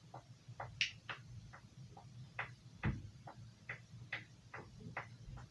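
Carving-knife blade being drawn back and forth on a leather strop, a short stroke about three times a second.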